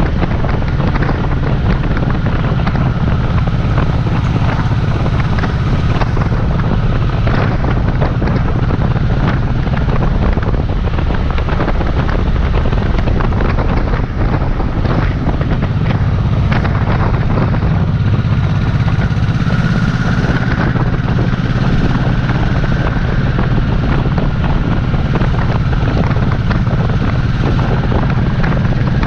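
Honda Shadow Sabre's 1100 cc V-twin engine running steadily at cruising speed, with wind rushing over the microphone.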